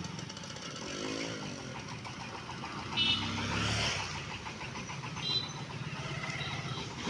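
Engines idling at a railway crossing, a steady, pulsing low rumble; brief high tones sound about three seconds in and again after about five seconds.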